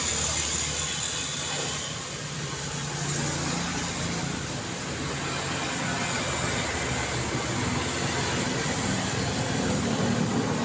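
City road traffic: a steady rush of passing vehicles and tyres that swells and eases. A lower engine hum grows louder near the end as a vehicle draws close.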